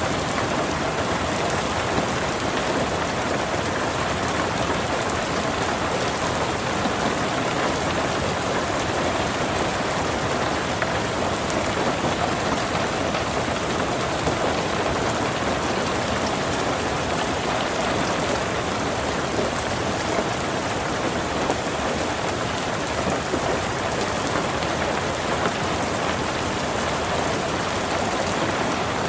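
Steady monsoon rain falling, an even hiss without breaks or changes in level.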